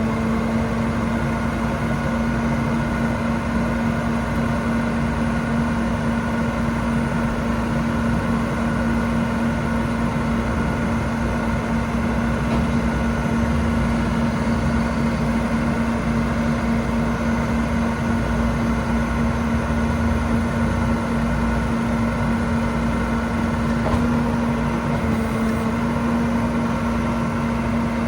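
Kenworth T370 service truck's PX8 diesel engine idling steadily, with a constant hum.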